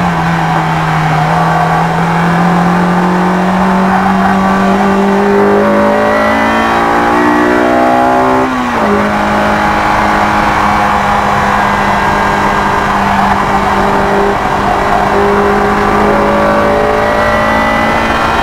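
Honda S2000's four-cylinder engine under hard acceleration on track. It climbs steadily in pitch in third gear, drops abruptly on a quick upshift to fourth a little before halfway, then holds high revs, rising only slightly.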